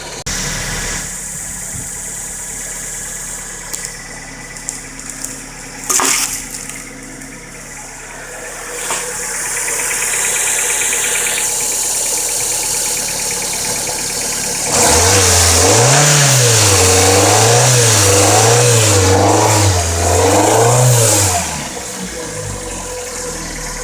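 Fiat Palio's four-cylinder Fire engine idling, with a single sharp knock about six seconds in, then blipped up and down about five times before settling back to idle. It carries the strange engine noise, worse when cold, that the owner traced to a faulty oil pump.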